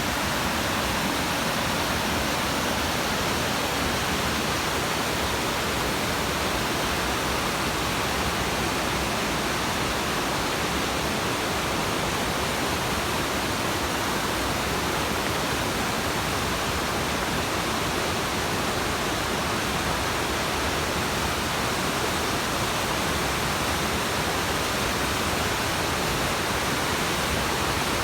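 Waterfall on a mountain stream: falling water making a steady, unbroken rushing noise.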